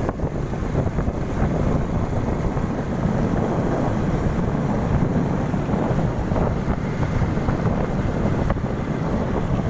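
Strong wind buffeting the microphone, a steady rumbling noise with surf from the sea beneath it.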